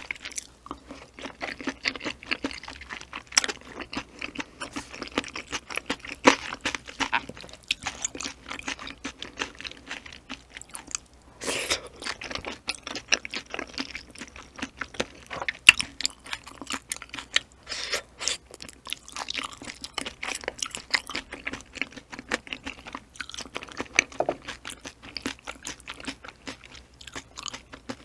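Close-miked chewing of seasoned ocean sunfish jelly: continual wet mouth clicks and smacks at an uneven pace.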